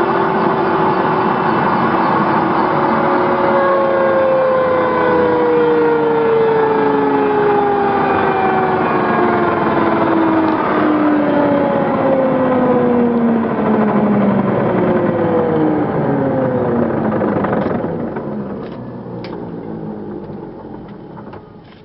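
Aérospatiale SA365N1 Dauphin helicopter's twin turboshaft engines spooling down after being cut: several whining tones slide steadily lower in pitch. About three-quarters of the way through, the noise fades away, with a few faint clicks near the end.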